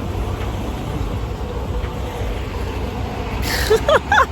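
Steady low rumble of an idling vehicle engine, with a short rustling burst and a quick high squeak near the end.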